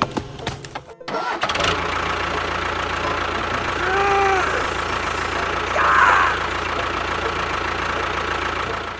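A motor starts about a second in and runs steadily as a continuous hum, then cuts off at the end. A short tone rising and falling sits over it near the middle.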